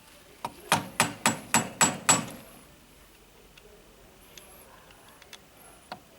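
Hammer knocking on metal: a quick run of about seven blows, roughly three a second, each with a short metallic ring, then a few light taps.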